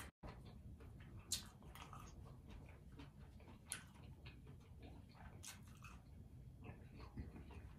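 Quiet close-up chewing of fried lobster tail, with scattered sharp crunches and mouth clicks, three of them louder than the rest.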